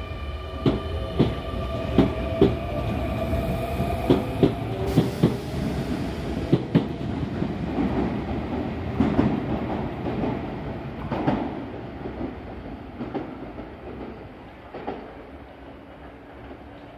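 Sotetsu electric commuter train pulling out of the station: a string of sharp wheel clacks over rail joints and a motor whine that rises slightly as it speeds up. The rumble then fades as the train draws away.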